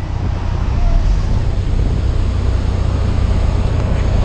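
Heavy wind rushing over the microphone, a loud steady rumble during a skydive. It drops away suddenly right at the end.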